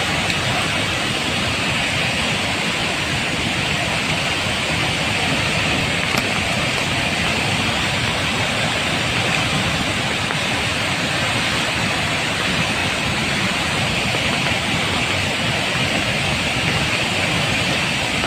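Waterfall in heavy flow, swollen by heavy rain: a steady rush of falling water.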